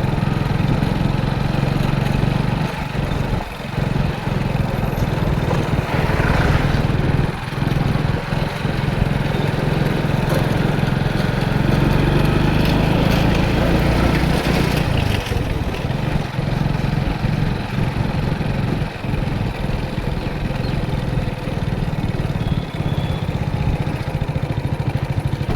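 Motorcycle engine running steadily under way, its note shifting about fifteen seconds in, with a few brief knocks.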